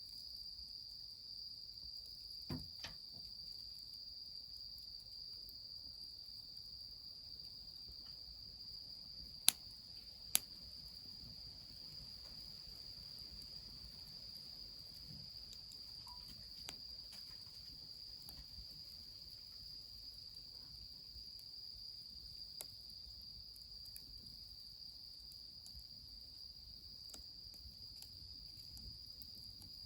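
Crickets singing in a steady, unbroken high-pitched chorus, with a few sharp cracks, the loudest two close together about ten seconds in.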